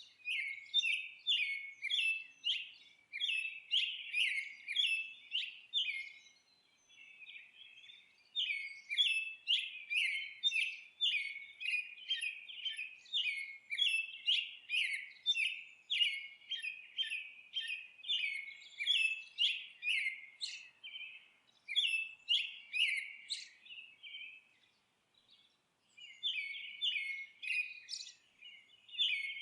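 A bird chirping in quick repeated notes, about two a second, in long runs broken by two short pauses.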